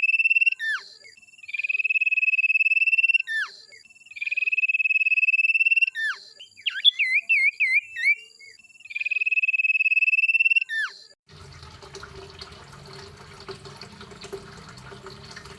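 A songbird repeating a loud, piercing song phrase: long, steady, high trills, each ending in a quick downward slur. The phrase comes four times, with a short, fast-changing warble between the third and fourth. About eleven seconds in, the song cuts off to a fainter noisy background with a low steady hum.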